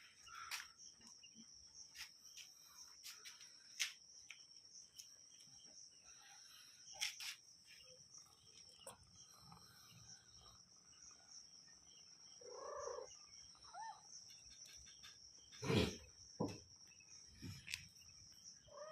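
A cat lapping milk: faint, irregular soft clicks, with a short cat call about two-thirds of the way through and a sharper knock soon after. A steady high-pitched whine runs underneath.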